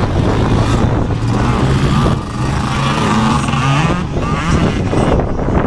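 Motocross motorcycle engines running. One bike holds a steady note, then revs higher, its pitch climbing about three to four seconds in.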